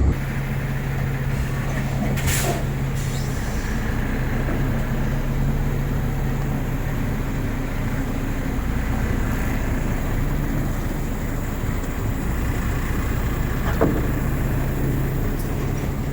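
Heavy truck's diesel engine running steadily, with two brief knocks, one early and one near the end.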